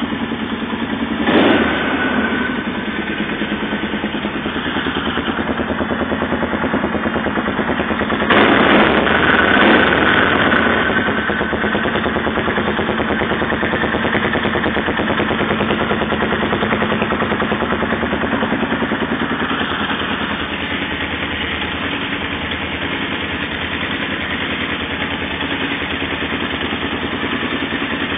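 Polaris 500 X2 engine idling through an aftermarket GPR muffler, blipped briefly about a second in and revved for a couple of seconds about eight seconds in, then settling back to a steady idle.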